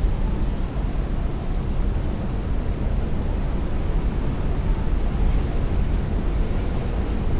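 Heavy rain beating on a window with strong wind, a steady, even wash of noise dominated by a deep low rumble.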